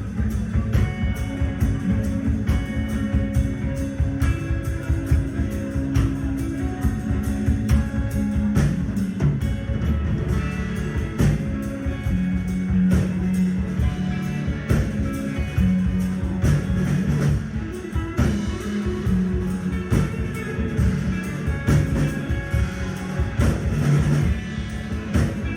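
Loud live rock music: a guitar playing sustained, heavy low riffs over a drum kit pounding a dense, driving beat.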